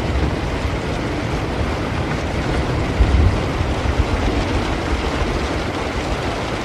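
Steady heavy rain with a low rumble of distant thunder underneath, swelling briefly about three seconds in.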